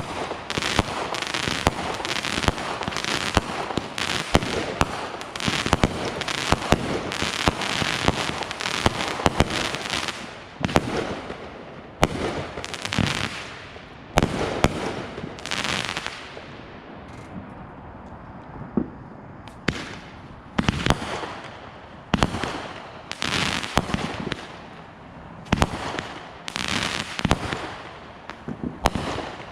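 Consumer fireworks going off in rapid succession: a dense run of sharp bangs and crackling, easing into a brief lull a bit past the middle before the bangs pick up again.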